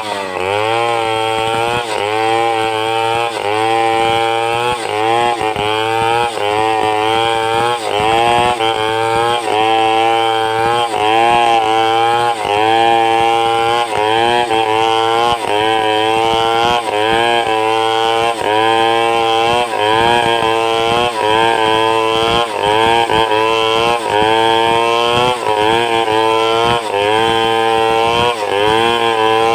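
Two-stroke chainsaw running under load while ripping timber into boards, its engine pitch sagging and recovering about once a second as the bar works through the cut.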